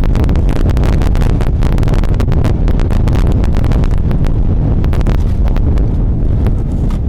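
Strong wind buffeting the microphone, a loud, steady low rumble, with many sharp clicks and crackles throughout.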